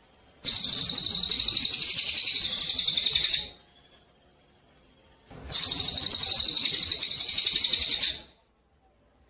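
A songbird singing two loud, high-pitched, very fast trills, each about three seconds long with a short pause between, as in a bird-tutor recording of song played in phrases with gaps.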